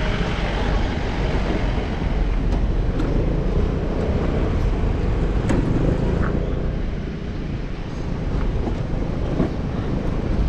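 Vespa scooter riding over a rough, broken road: steady engine and road rumble with a few faint knocks.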